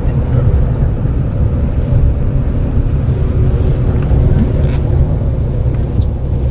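Steady low rumble of a vehicle running, with a faint steady hum above it.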